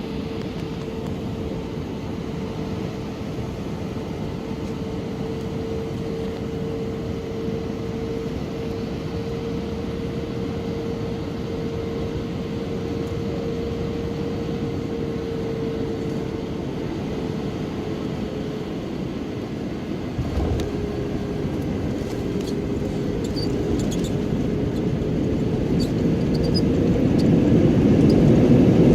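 Airbus A319 cabin noise on landing: a steady jet-engine drone with a held whine. About twenty seconds in comes a low thump as the wheels touch down, and near the end the engines grow louder.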